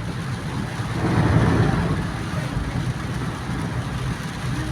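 Car driving on a rain-soaked, partly flooded highway: steady road and wet tyre noise that swells louder for about a second, starting a second in.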